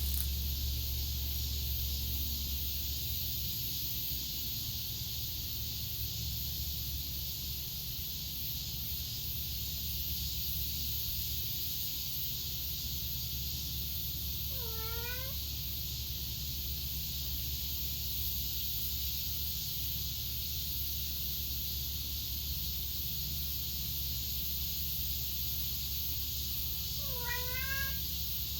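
A cat meowing twice, short rising meows about halfway through and again near the end, over a steady high hiss.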